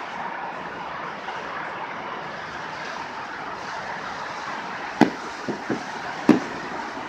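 Fireworks going off: two sharp bangs a little over a second apart near the end, with two smaller pops between them, over a steady background noise.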